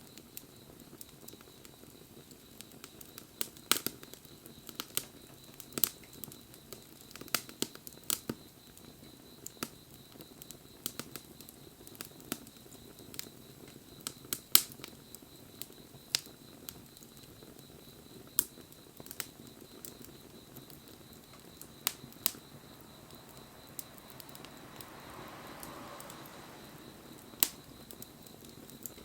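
Wood fire crackling: irregular sharp pops and snaps of burning wood over a faint low hiss.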